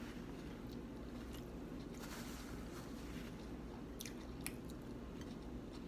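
Close-miked chewing of food, with a few faint clicks and crunches over a steady low background hum.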